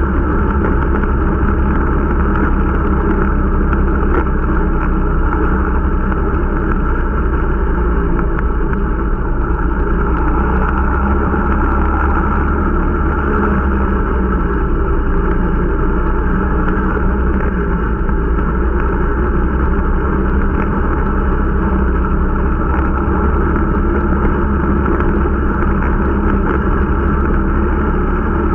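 Irbis Dingo T125 snowmobile's small 125 cc engine running steadily at an even, unchanging pace; the machine is new and being run in.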